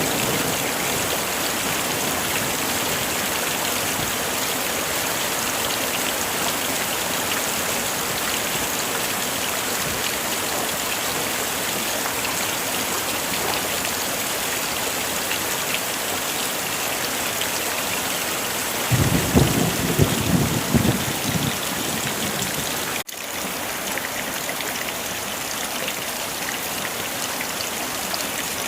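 Heavy rain falling steadily. About two-thirds of the way through, thunder rumbles low for a couple of seconds. Shortly after, the sound drops out for a split second and resumes slightly quieter.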